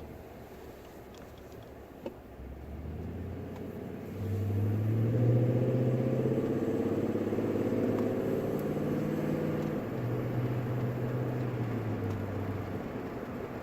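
2018 Toyota Tundra's V8 with a Dirty Deeds 10-inch stainless exhaust, heard from inside the closed cabin as a deep drone. It runs quietly at first, then gets much louder about four seconds in as the truck accelerates, changing pitch a couple of times, and eases off near the end.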